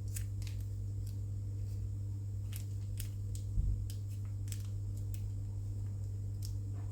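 Faint scattered clicks and taps of small plastic model parts and their packets being handled on a table, with a soft thump about three and a half seconds in, over a steady low electrical hum.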